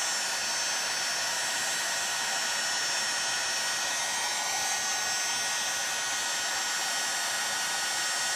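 Heat gun blowing steadily, a constant rush of air with a faint high whine from its fan motor, heating an aluminium chainsaw crankcase.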